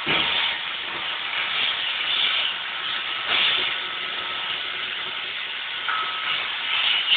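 iRobot Roomba robot vacuum running, a steady whirring hiss from its motor and brushes, with a short knock at the start.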